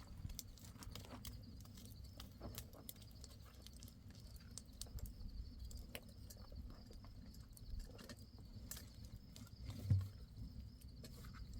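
Scattered, irregular light clicks and knocks over a low rumble, with a heavier thud about ten seconds in.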